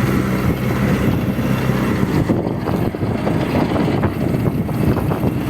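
Bobcat skid-steer loader's diesel engine running under load, steady at first, then rougher with a clattering rattle as the machine works.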